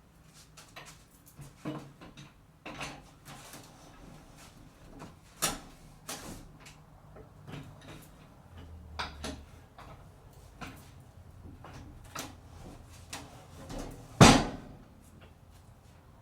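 Scattered knocks and clicks, several a few seconds apart, with one much louder bang about 14 seconds in.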